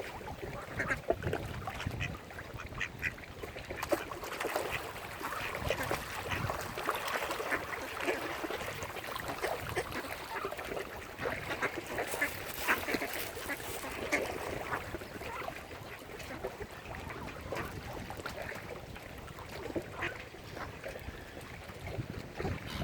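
Mallard ducks quacking, many short calls overlapping one another throughout.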